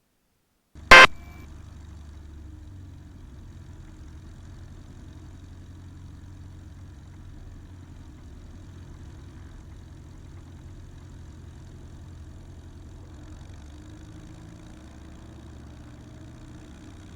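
A sharp click about a second in, then the Piper Arrow's piston engine running steadily at a low idle-like drone.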